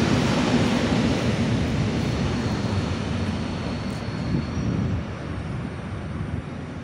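Electric commuter train rumbling on the tracks, a steady low noise that slowly fades, with a faint high whine for a couple of seconds midway.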